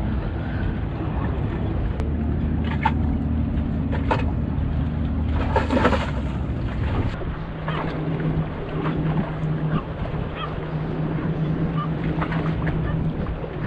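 A boat motor running steadily, with its pitch settling to a different steady note about seven seconds in, over water and wind noise.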